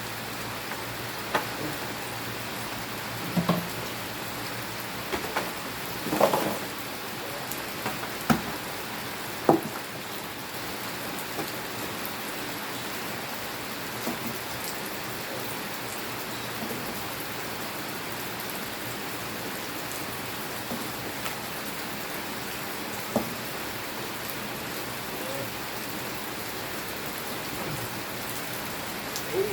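Steady rain falling, an even hiss, with a few scattered short knocks in the first ten seconds or so.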